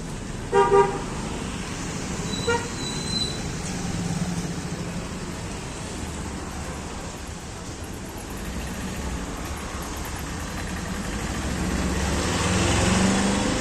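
Road traffic with a short vehicle horn honk about half a second in and a briefer toot around two and a half seconds; the traffic noise swells near the end as a vehicle passes.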